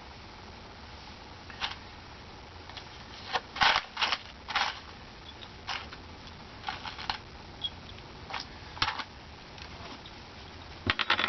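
Scattered knocks and clatters of scrap wood boards being handled and set in place. There is a cluster of sharper knocks around four seconds in and a quick run of them near the end.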